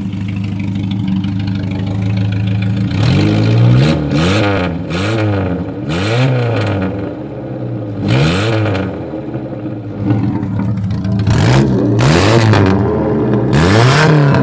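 MG Midget's four-cylinder engine running on its first start-up, idling steadily, then revved in quick blips, about nine times, the revs rising and falling again each time.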